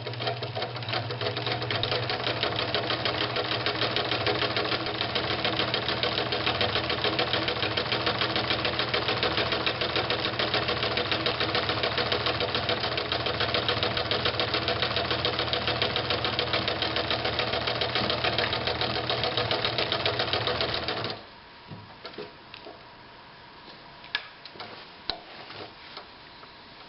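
1960s Bradford sewing machine running steadily while sewing a full-width, short-length zigzag stitch. It stops abruptly about 21 seconds in, followed by a few light clicks.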